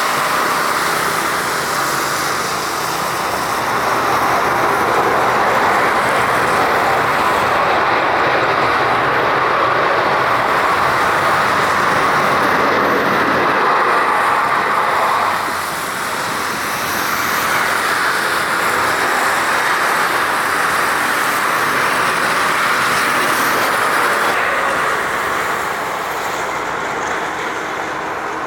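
Airbus A330-300 airliner landing on a wet runway: a loud, steady rush of jet-engine and wet-runway noise that eases briefly about halfway through and shifts to a slightly lower level near the end.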